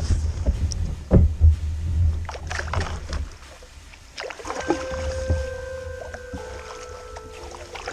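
Kayak paddling: paddle strokes splashing, with knocks and clicks against the hull over a low rumble. About halfway in, music with held notes comes in.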